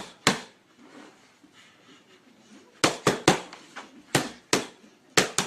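Punches landing on a boxing target in combinations: two sharp smacks at the start, then after a short pause a quick run of about eight more.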